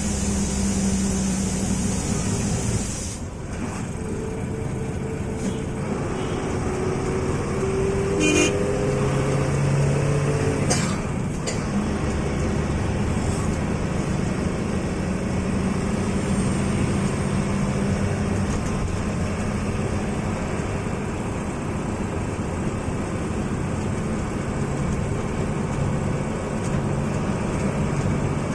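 Bus engine running steadily under load, heard from the driver's cabin, with horn toots sounded during the overtake between about four and ten seconds in.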